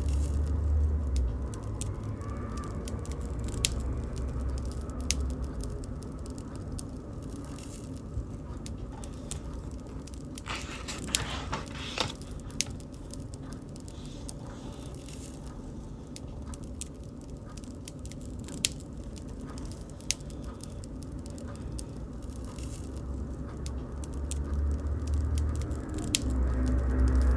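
Wood bonfire burning, crackling with scattered sharp pops over a low steady rumble. A brief denser rush of crackling comes about eleven seconds in, and the low rumble swells near the end.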